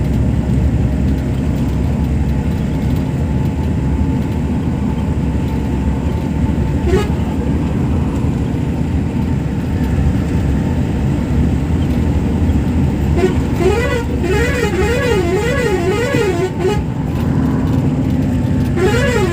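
A road vehicle's engine rumbles steadily while a warbling horn, its pitch sweeping up and down about twice a second, sounds for about three seconds in the second half and starts again right at the end.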